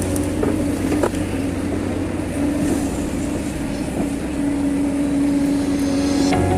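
Excavator diesel engine running steadily, with a couple of sharp knocks.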